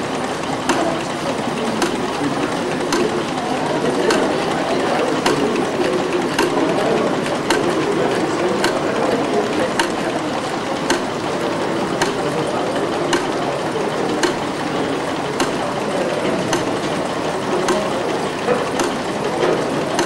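A machine running steadily, with a sharp click at an even beat a little slower than once a second.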